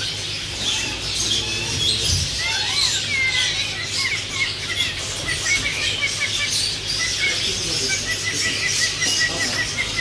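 Birds chirping: a run of short, quick high notes with little up-and-down glides, starting about two seconds in and going on steadily, over a rustling background.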